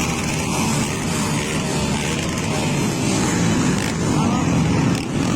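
Many motorcycle engines running together at once, their overlapping tones forming a dense, steady drone.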